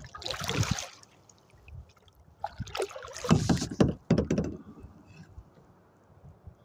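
Kayak paddle strokes splashing in water, in two bursts: a short one at the start and a longer one from about two and a half seconds in.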